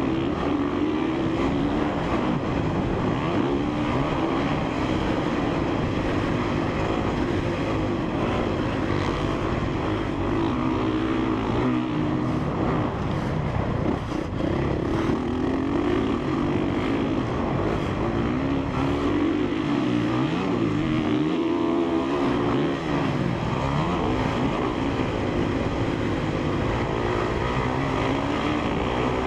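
Honda CRF450R's single-cylinder four-stroke engine revving up and down as the dirt bike is ridden hard around a motocross track. About twenty seconds in, the engine note rises and falls quickly several times.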